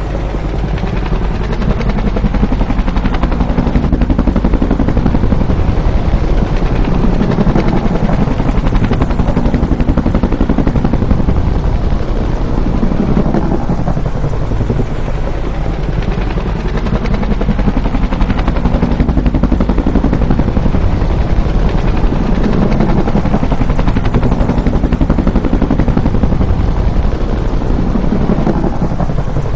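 Bell UH-1 "Huey" helicopter, its rotor blades beating rapidly and steadily over a deep rumble, loud and close.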